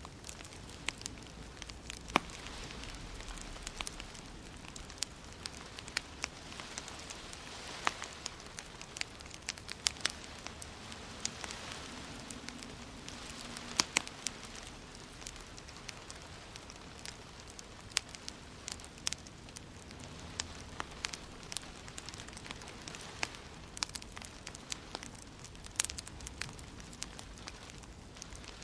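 Wood fire in a fireplace crackling, with frequent irregular sharp pops over a steady soft hiss of gentle rain.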